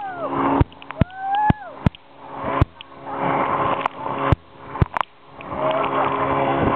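Motorboat engine running steadily while the boat rides through waves. Water rushes and splashes in surges every second or two, with scattered sharp knocks and a couple of short whistle-like glides near the start.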